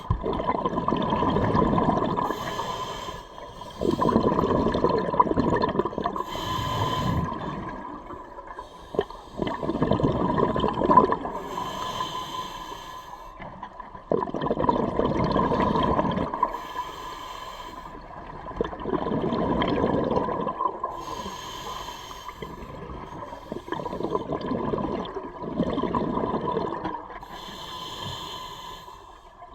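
Scuba diver breathing through a regulator underwater: a short hiss of each inhalation, then a long gurgling rush of exhaled bubbles. The cycle repeats about every five seconds.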